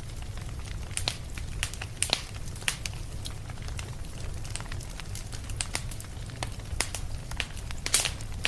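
Fireplace fire crackling, with irregular sharp pops and snaps over a low steady rumble; the loudest pop comes near the end.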